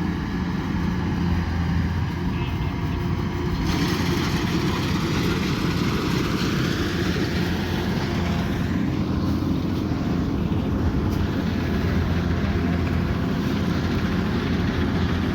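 Kubota combine harvester's engine running steadily, a constant low hum with machinery noise over it.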